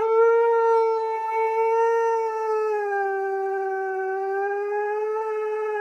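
Siberian husky giving one long, steady howl, its pitch dipping slightly partway through.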